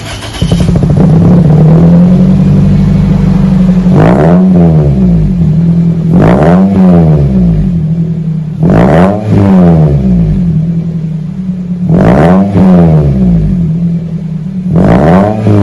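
2001 Toyota Celica GT's four-cylinder engine idling through a new axle-back exhaust with a Magnapack muffler. It is blipped about five times, a few seconds apart, and each rev rises quickly and falls back to idle.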